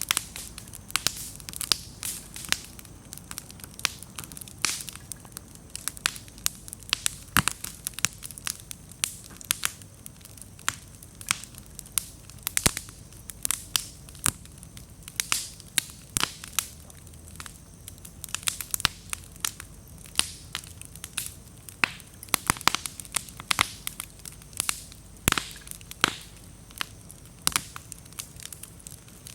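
Wood bonfire burning, with dense, irregular crackling and sharp pops over a low steady hiss; the damp firewood bursts often, throwing sparks.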